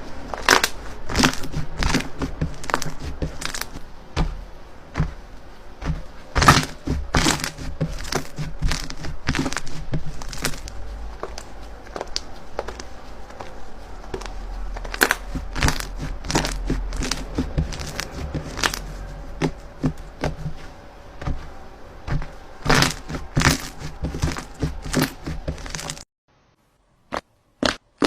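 Slime being squeezed and pressed by hand, making a dense run of sharp clicks and pops. Near the end it cuts to a moment of silence, then a few separate louder pops.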